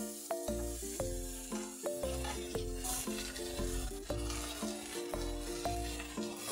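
Onions and tomatoes sizzling in a frying pan on a portable gas stove, stirred with a wooden spatula. Background music with a plucked melody and a steady bass beat plays over it and is the louder sound.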